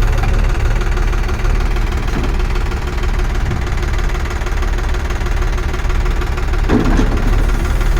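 Tractor engine running steadily with a deep, even rumble, with a brief louder surge about seven seconds in.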